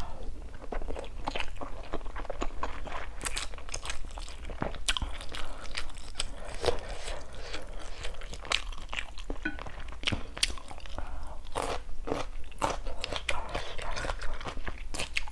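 Close-miked chewing of a mouthful of spicy instant noodles, with many irregular wet mouth clicks and smacks.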